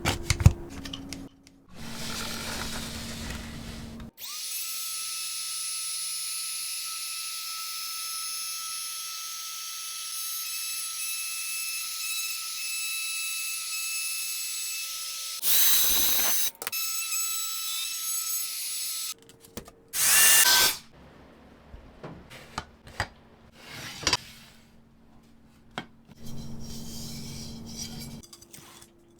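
Trim router spinning up about four seconds in and running at a steady high whine for about fifteen seconds, louder for a moment as it cuts wood along a template, then stopping. Knocks and handling clatter follow near the end.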